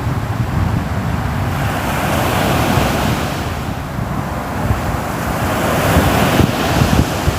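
Sea waves breaking and washing on a shore, swelling twice as waves come in, with wind rumbling on the microphone.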